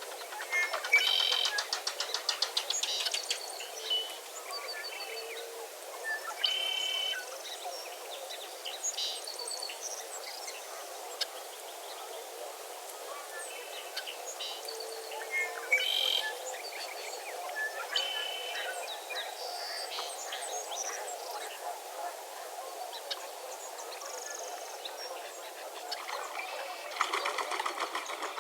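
Many birds calling and singing together in a sunrise chorus: short chirps, whistles and rapid trills come from several directions over a steady background hiss. A fast rattling trill runs near the start, and a denser, louder flurry of calls comes near the end.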